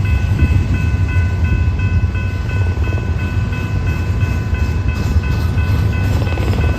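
A train passing with a heavy, steady low rumble. Over it a high ringing ding repeats about three times a second.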